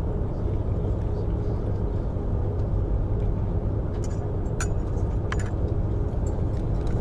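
Steady low rumble of a Eurostar high-speed train running, heard inside the carriage, with a faint steady hum. About four to five seconds in, a few light clinks of tableware.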